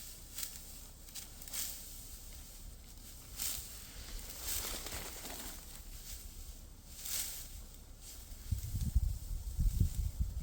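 Dry rustling and swishing in several separate strokes, followed near the end by a cluster of low rumbling thumps.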